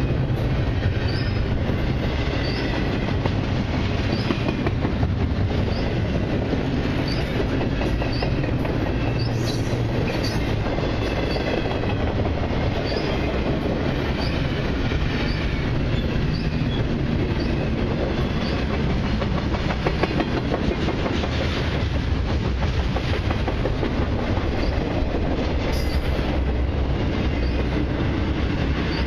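A long Canadian Pacific intermodal freight train's cars rolling steadily past, wheels clacking over the rail joints. Short high wheel squeals repeat about once a second, mostly in the first half.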